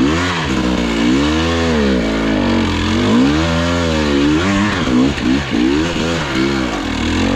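Dirt bike engine revving up and down as the rider works the throttle: a few long swells in pitch, then a quicker run of short blips from about five seconds in.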